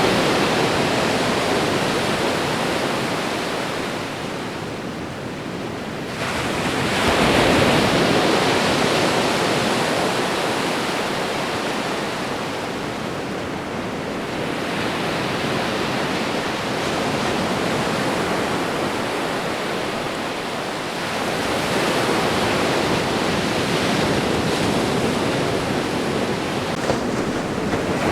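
Ocean waves washing onto a shore, a continuous rush of surf that swells and ebbs, with a big wave breaking about a quarter of the way in.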